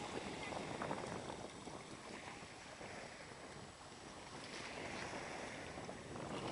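Black Sea waves washing onto a sandy beach, the wash swelling twice.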